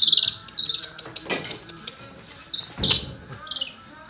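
Brahminy kite calling: several high, short calls that fall slightly in pitch, one at the very start and more after about half a second and near three seconds. Two knocks come about a second and three seconds in.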